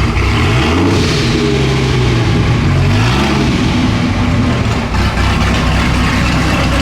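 Car engine running at low speed while the car is manoeuvred, with two short revs, about half a second in and about three seconds in.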